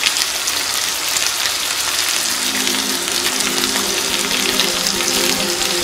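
Chicken pieces with onion and capsicum sizzling in a frying pan, a steady hiss. A few low steady tones come in about two seconds in.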